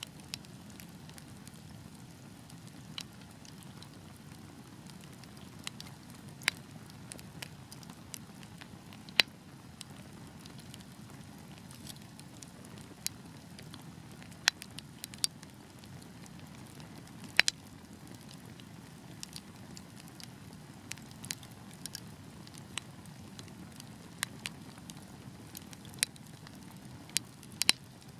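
Wood fire burning in a fireplace: a steady low flame rustle with irregular crackles and sharp pops, several louder pops scattered through.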